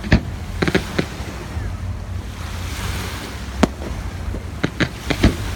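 Fireworks bursting: about eight sharp bangs, three or four close together near the start, one in the middle and three near the end, over a steady low rumble of wind on the microphone.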